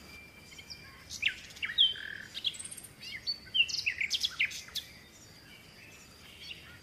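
Small birds chirping and whistling, a busy run of short high calls for about four seconds, then a short lull.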